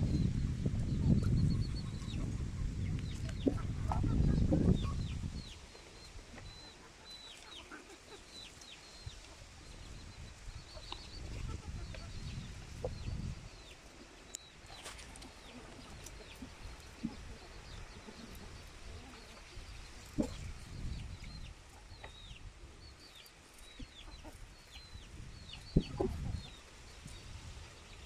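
Laying hens clucking, with many short, high, falling chirps scattered throughout. A heavy low rumble covers the first five seconds and comes back briefly later.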